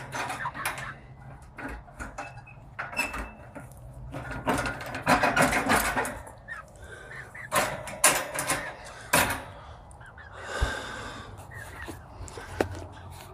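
Scuffling and rustling with sharp knocks and clicks of wood as chickens are shooed into a wooden chicken house, in irregular spells.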